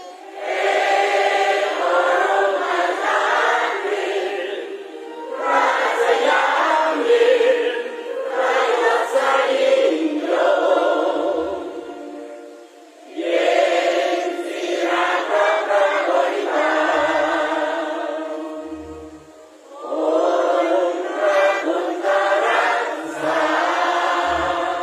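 A large group of voices singing together like a choir, in long phrases with brief pauses between them.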